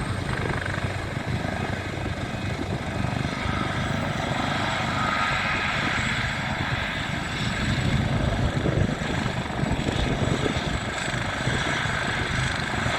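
Helicopter in flight, heard from inside the cabin with the doors open: a steady rotor and turbine din mixed with rushing wind.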